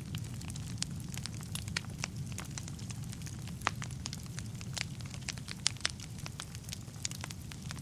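Wood fire burning in a fireplace: a steady low rumble of flame with irregular crackles and sharp pops of burning wood, a few pops louder than the rest.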